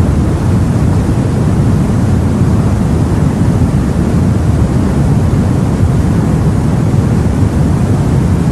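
Steady, loud rumble of sea and wind heard from aboard a boat, heaviest in the low range, with no distinct events or changes.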